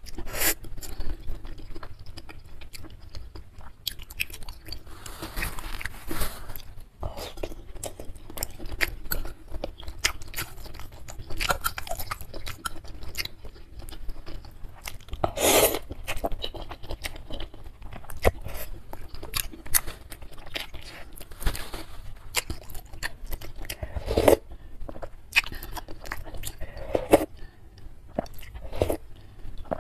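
Close-miked chewing of beef tendon meatballs and instant noodles in soup, with a few louder slurps of noodles and broth and the light clink of a metal spoon and fork against the bowl.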